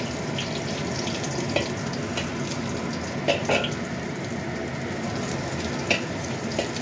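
Sliced garlic and ginger sizzling in hot oil in a wok, a steady hiss, with a few clinks and scrapes of a metal spatula against the wok as they are stirred.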